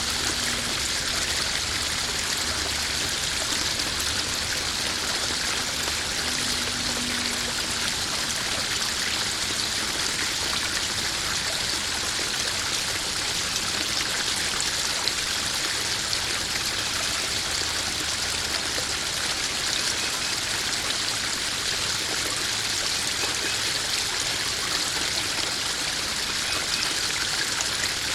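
Small garden pond waterfall running steadily, water splashing and trickling into a koi pond.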